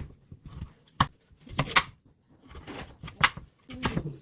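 Kitchen food-prep sounds: a few separate sharp knocks against a work surface, some followed by brief scraping or rustling.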